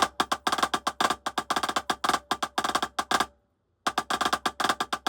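Drumsticks playing a fast drum rudiment exercise of quick stroke groups, sharp crisp hits several times a second; the playing breaks off completely for about half a second a little past halfway, then picks up again.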